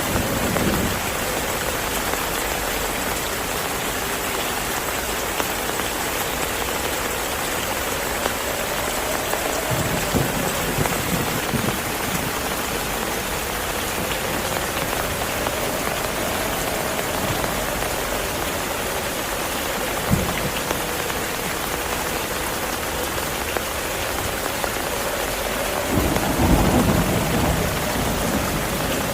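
Steady heavy rain, with low rumbles of thunder a few times, the loudest near the end.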